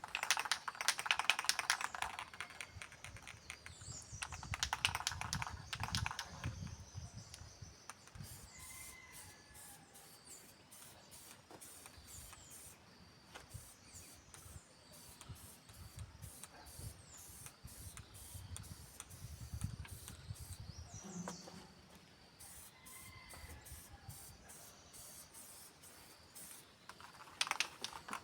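Paint being applied by brush to an iron fireplace: dense, scratchy bristle strokes ticking over the metal. The strokes are loudest in the first couple of seconds, again a few seconds later, and briefly near the end.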